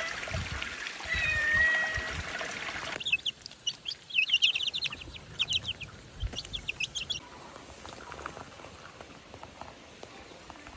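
Chickens calling: a few held calls over a hiss in the first three seconds, then a quick run of short, high chirps for about four seconds before it goes quieter.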